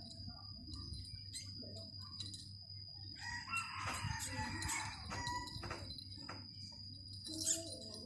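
A rooster crowing once, starting about three seconds in and lasting about a second and a half, with faint scattered clicks and a thin steady high-pitched whine underneath.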